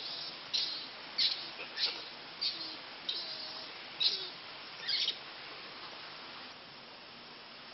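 A bird chirping in short, high calls, about eight of them half a second to a second apart, stopping about five seconds in, over a steady tape hiss.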